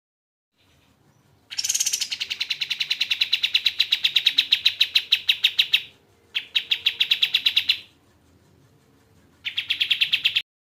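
Kapas tembak songbird singing three fast trilled phrases of rapidly repeated sharp notes, about ten notes a second. The first phrase runs about four seconds, and two shorter ones follow after brief pauses.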